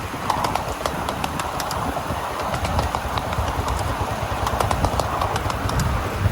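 Miniature railway train running along the track: a low rumble with many irregular sharp clicks of the wheels over the rails.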